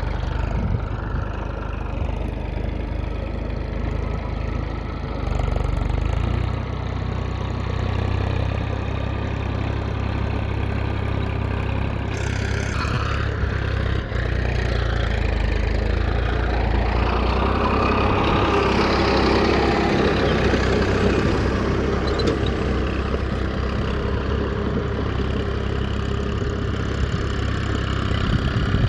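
An engine running steadily with a low hum. About halfway through, a busier mechanical sound builds up and then eases off.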